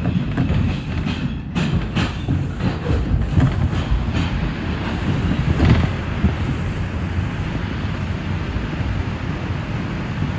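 NYC Subway R142 train running between stations: a steady rumble, with a few clacks of the wheels over rail joints in the first six seconds, then even running noise.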